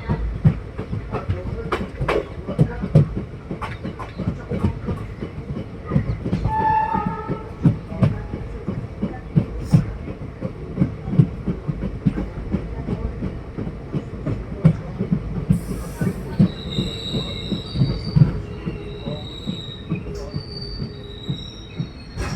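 ICF passenger coach running on the track: a steady rumble with frequent irregular clanks and rattles. A brief tone sounds about seven seconds in, and from about sixteen seconds in high-pitched metallic squeals come and go.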